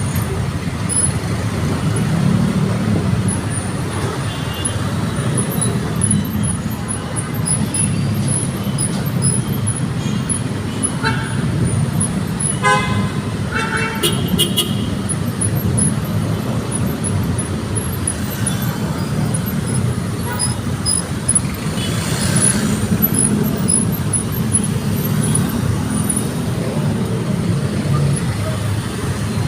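Steady rumble of road traffic in a jam, with short car-horn toots about halfway through.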